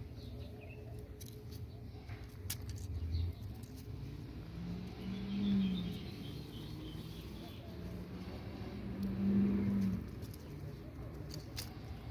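Two low cooing calls, each about a second long, one about halfway through and one about three-quarters of the way through, over a steady low rumble.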